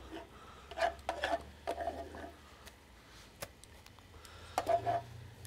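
Kitchen tongs lifting wilted, steamed spinach off a steamer plate: a few light clinks and knocks with soft rustling, about a second in, around two seconds, and again near the end.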